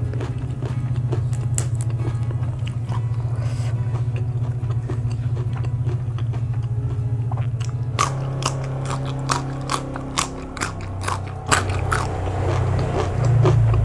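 Close-miked chewing of crunchy raw vegetables. Sharp crunching bites come thick and fast from about eight seconds in, over a steady low hum.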